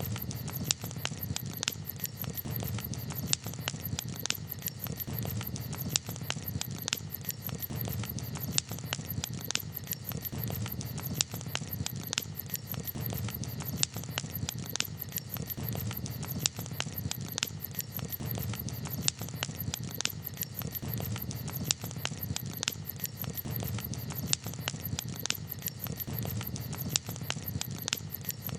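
Wood campfire crackling: frequent, irregular sharp pops and snaps over a steady low rumble.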